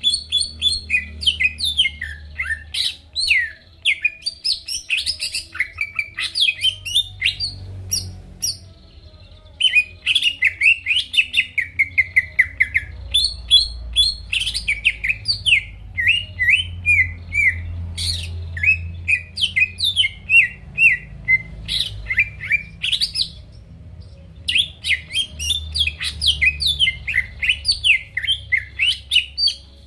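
Cucak ijo (green leafbird) singing in long, rapid phrases of varied chirps, whistles and trills, with brief pauses about a third of the way in and near the end, over a faint steady low hum.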